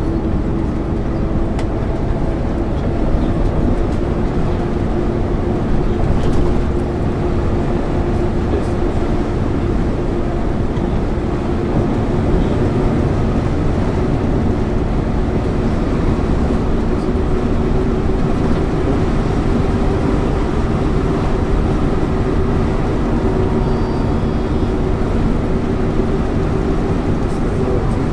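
Interior sound of a 1999 MAN ÜL 353 intercity bus under way: a steady engine and road drone with a constant low hum.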